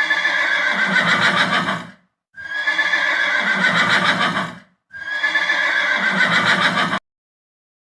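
Horse whinnying: the same neigh, a shaky call that slides down in pitch, heard three times in a row, each lasting about two seconds.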